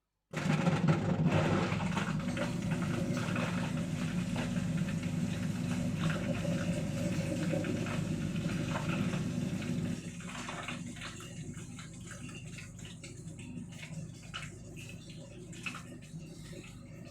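Indesit My Time washing machine running on its final rinse, which is dosed with detergent: water rushing over a steady low hum. About ten seconds in the sound drops to a quieter level, with scattered clicks and splashes.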